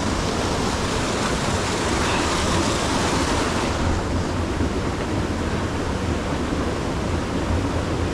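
Steady rushing of water from a cascade waterfall and its stream, a little fuller for the first few seconds and then easing slightly.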